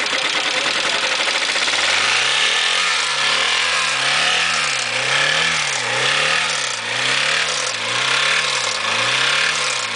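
Honda D16A8 four-cylinder engine running at full throttle with the oil light on, starved of oil as it is run to destruction. About two seconds in its speed starts surging up and down in a steady cycle, about once a second.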